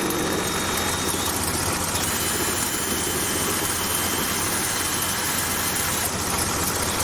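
Metal lathe running steadily while it takes a cut on a metal spacer.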